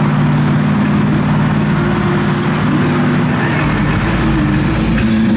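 Steady engine drone and road noise of cars driving in traffic, heard from inside a moving car.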